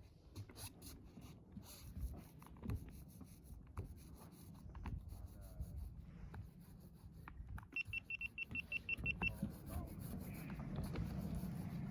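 Scattered light taps and knocks, then a quick run of about ten high electronic beeps lasting about a second and a half, followed by a low steady hum near the end.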